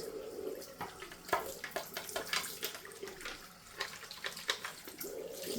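Tap water running steadily, with many short scrubbing and knocking sounds as a plastic washing-machine part is scrubbed under the stream.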